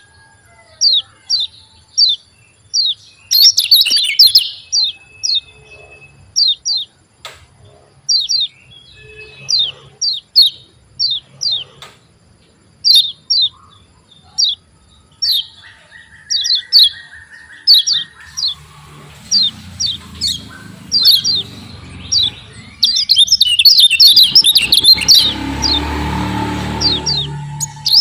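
Kecial kuning (yellow white-eye) calling a fast series of sharp, high, downward-sweeping 'ciak' chirps in quick runs. From about two-thirds of the way in, a rushing noise with a low rumble builds under the calls and is loudest near the end.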